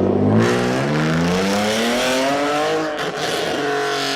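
A car accelerating hard, its engine note climbing steadily for about two and a half seconds with a rush of exhaust noise, then easing off near the end.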